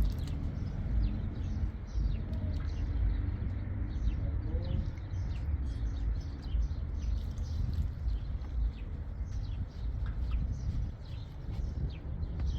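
Small birds chirping, many short high chirps in quick succession throughout, over a steady low rumble.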